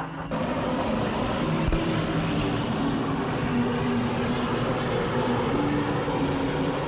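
Steady rushing noise of a steam train running, with background music playing a melody over it. A low thump comes about a second and a half in.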